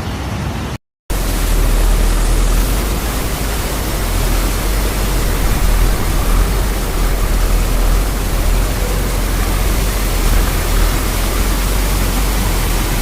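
Steady, loud rushing of heavy rain, with a deep rumble underneath. The sound cuts out completely for a moment about a second in, then carries on.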